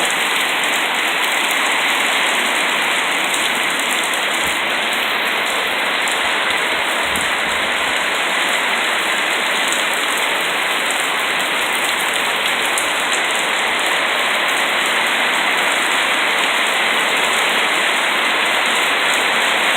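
Heavy rain pouring down in a steady, dense hiss, drops pelting the surfaces all around.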